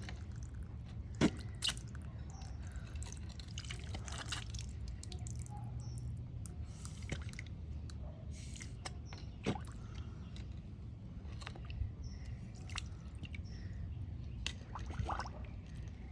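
Water dripping and splashing, with a few sharp clicks and knocks scattered through.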